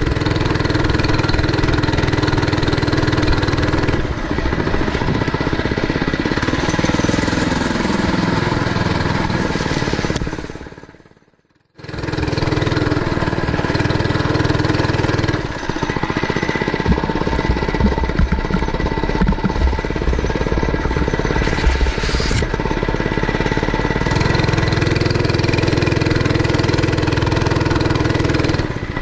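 Mini bike's small gas engine running as it is ridden, its pitch rising and falling with the throttle. The sound fades away about eleven seconds in and comes back abruptly a second later.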